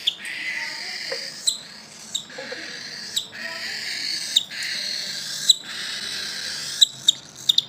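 Cockatiel making a continuous raspy, hissing call broken by short sharp chirps about once a second.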